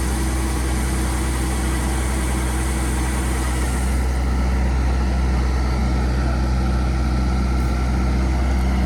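A large engine running steadily with a deep hum; its higher tones turn a little duller about four seconds in.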